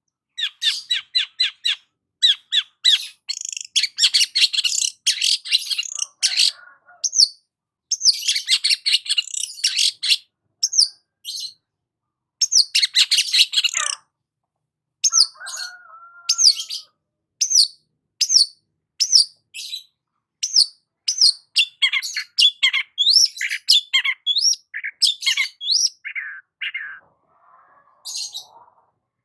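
Long-tailed shrike singing. It gives fast runs of sharp chattering notes, then single short high notes about a second apart, then varied twittering phrases.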